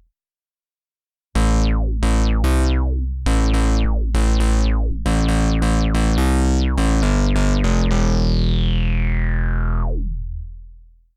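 Cherry Audio P10 software synthesizer playing a bass preset: after a second of silence, a run of short bass notes, each opening bright with a quick downward filter sweep. It ends on a longer held note whose filter closes slowly as it fades out.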